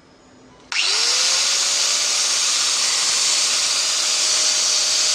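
Stanley STGS9125 angle grinder switched on about a second in: the motor spins up with a rising whine, then runs steadily at full speed with a loud high-pitched hiss.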